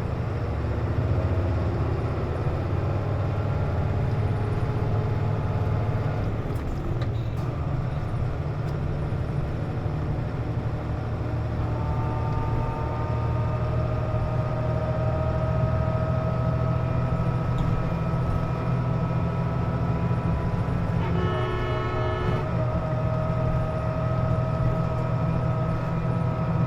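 Interior of a KC-JP250NTN route bus under way: the diesel engine's low rumble, with the steady whining noise the bus makes while its air conditioning runs. From about halfway the whine grows clearer and rises slowly in pitch, and a short buzzing tone sounds briefly near the end.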